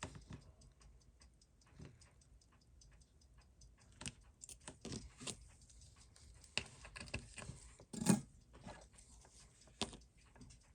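Irregular small clicks and taps of watchmaker's tools and metal watch parts being handled on the bench during disassembly of a Seiko 6139 chronograph, with a louder knock about eight seconds in.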